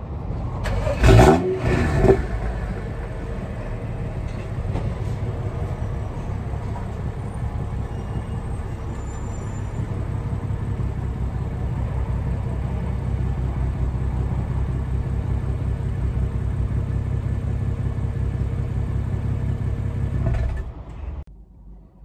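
BMW M235i turbocharged inline-six (N55), breathing through a decatted, resonator-deleted exhaust with the standard back box, cold-started: the starter cranks and the engine catches with a brief rise in revs about a second in, then settles straight into a steady idle. There is no loud high-idle cold-start flare, because it has been turned off in the Bootmod3 map. The sound cuts off abruptly near the end.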